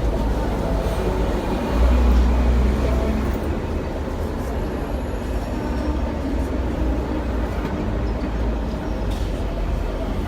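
Hong Kong double-decker tram running along its street track, heard from on board: a steady low rumble of wheels and running gear that swells louder about two seconds in.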